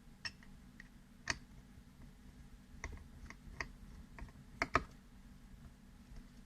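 Scattered small, sharp clicks and taps of metal parts as a folding knife is handled and worked during reassembly, the two loudest coming close together about four and a half seconds in.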